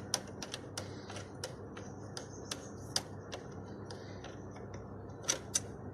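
Irregular light clicks and taps of small metal parts and tools being handled during disassembly of a vacuum cleaner motor, over a steady low hum. Two louder clicks come near the end.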